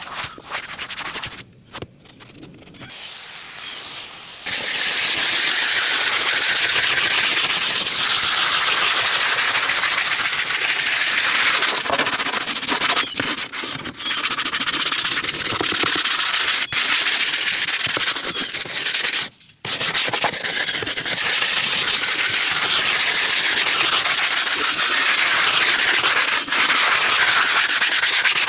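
Loud, steady hissing rush of a detailing tool running, starting about four seconds in and cutting out briefly about nineteen seconds in.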